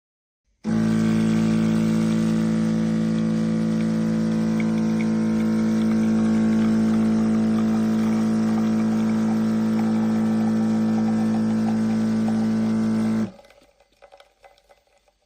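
Espresso machine's pump buzzing steadily for about twelve and a half seconds as it pushes water through, starting suddenly and cutting off sharply.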